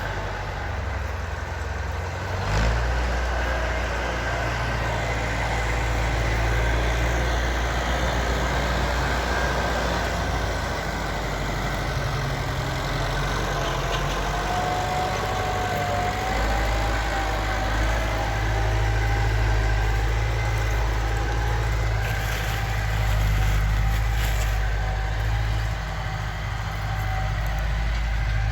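Tractor engine running steadily, its low note stepping up about two and a half seconds in and shifting again about halfway through.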